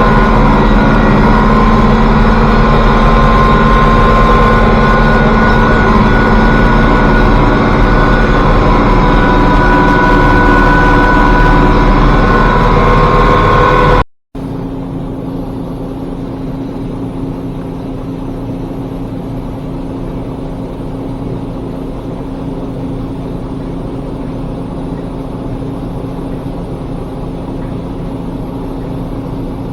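International Harvester 1086 tractor's diesel engine idling steadily. About fourteen seconds in, the sound cuts out abruptly, then a quieter, steady engine drone with a low hum carries on.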